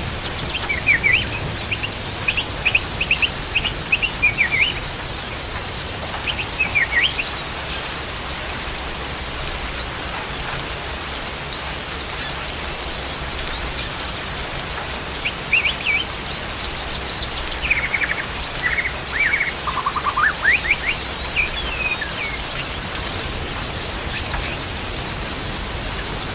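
Songbirds chirping and singing in short notes and quick trills, coming in clusters, over a steady background hiss.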